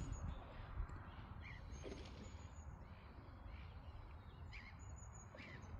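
Faint bird calls: several short separate calls spread through a few seconds over a quiet steady outdoor background.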